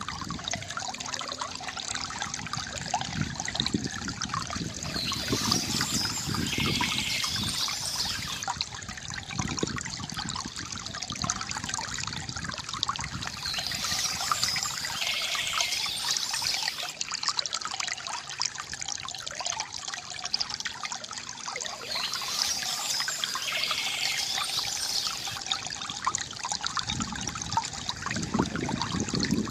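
Water from a bamboo fountain trickling and splashing steadily, with short bursts of bird chirping returning every eight or nine seconds.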